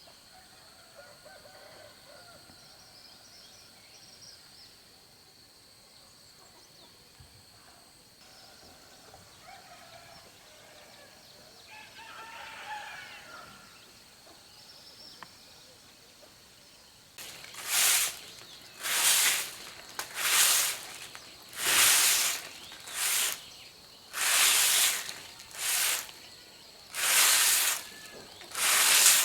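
Chickens calling faintly, with what may be a rooster's crow about twelve seconds in. From a little past halfway, a run of loud hissing strokes starts, each about half a second long, roughly one a second.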